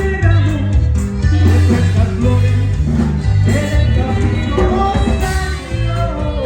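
Norteño band music with a Capiro bajo sexto strumming over a steady bass line.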